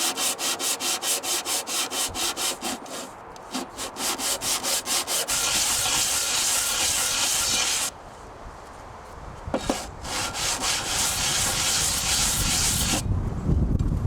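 Sanding the cast-iron side of a Diamond Edge hand plane by hand on sandpaper to flatten it: quick back-and-forth scraping strokes, about four to five a second, with brief pauses, a stretch of steady scraping in the middle, and a single click near the ten-second mark.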